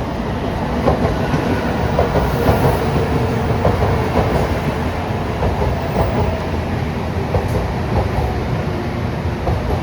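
Shinkansen train moving along the station platform: a steady loud running rumble, with wheels clicking over the rails at a regular beat.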